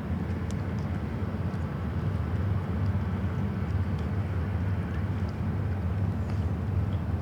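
Low, steady engine rumble that swells just as it begins and then holds level, with a few faint high ticks over it.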